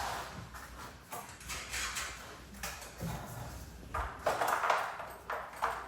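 Irregular metallic knocks and clinks of hand work on garage door torsion spring hardware.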